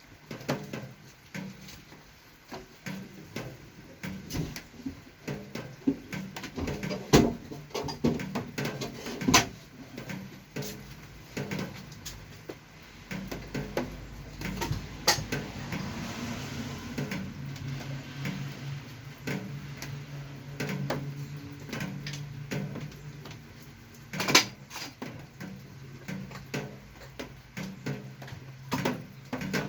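Irregular clicks and knocks of tools and small metal parts being handled, with a low steady hum underneath.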